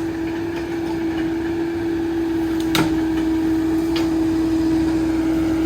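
Caterpillar 308 excavator running, a steady hum with one held pitch, with two short knocks about three and four seconds in.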